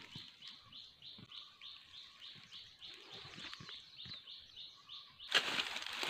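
A small bird caught in a ground trap flaps its wings in soft thumps under a high chirp repeated about three times a second. About five seconds in, loud rustling of leaves and brush takes over.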